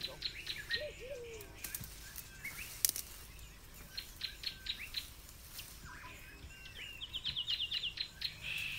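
Small birds chirping and calling, with short falling notes throughout and a quick trill of about ten even notes near the end. A few sharp clicks or knocks come about three seconds in.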